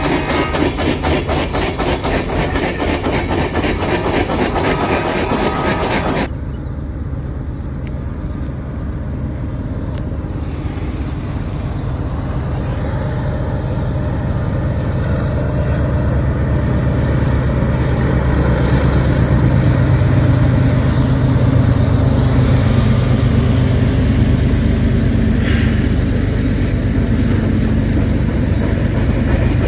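Freight train passing close by, steel wheels clattering rapidly over the rail, until a sudden cut about six seconds in. Then the low rumble of Norfolk Southern diesel locomotives approaching, growing steadily louder as they near.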